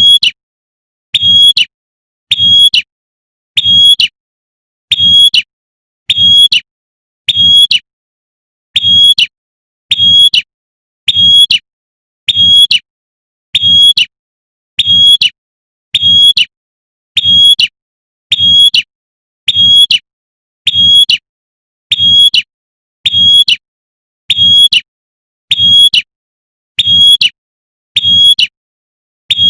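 Female prinia (prenjak) giving its sharp 'tembakan' call over and over, one short call a little more than once a second at a very even pace. Each call has a low thump beneath it.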